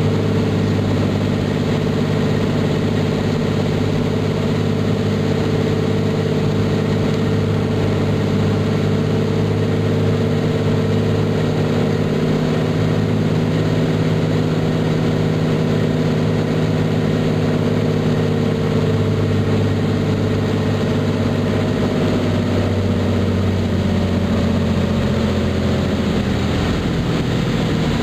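The turbocharged six-cylinder piston engine and propeller of a Cessna T206 Stationair running steadily in flight. About three quarters of the way through, the engine note drops in pitch as power comes back.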